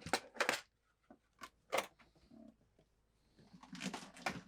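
Rummaging through a box of small hardware, looking for small screws and screw-in rings: a run of sharp clicks and knocks of small parts being handled and moved about, in short clusters at the start and near the end.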